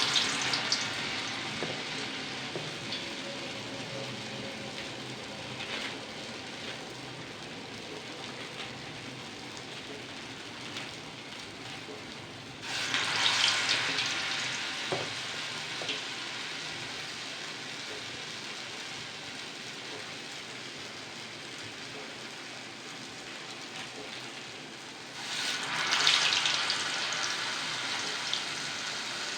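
Urad dal vadas deep-frying in hot oil: a steady sizzle that swells loudly twice, about thirteen seconds in and again near the end.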